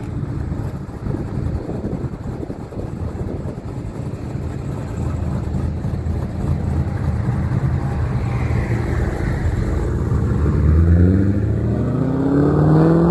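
A car engine rumbling low as the car pulls away, then accelerating hard over the last few seconds, its engine note climbing steadily in pitch.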